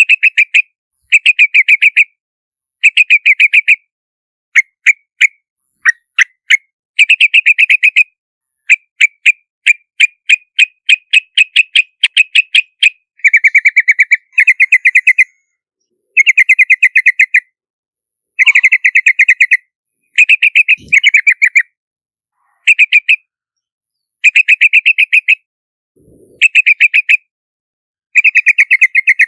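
Yellow-vented bulbul calling: short bursts of rapid chattering notes, repeated every second or two with dead-silent gaps between them, as in an edited lure-call recording.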